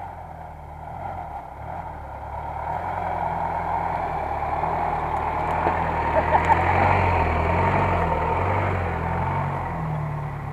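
SsangYong Korando's engine running under load, growing louder to a peak about two-thirds of the way through and then easing off, with a few short knocks near the middle.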